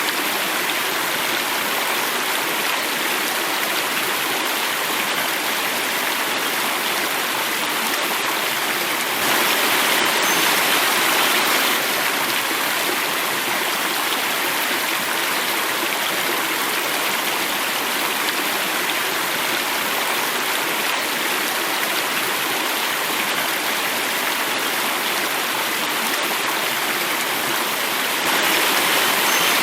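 Running water of a stream, flowing and falling in a small cascade: a steady rush, a little louder and brighter for a few seconds about nine seconds in and again near the end.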